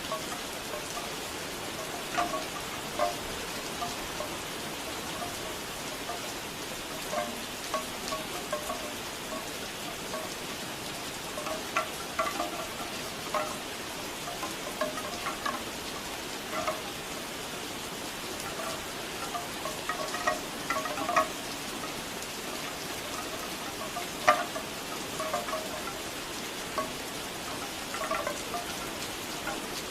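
Steady rain with bamboo wind chimes clacking irregularly over it, the hollow wooden knocks coming in loose clusters.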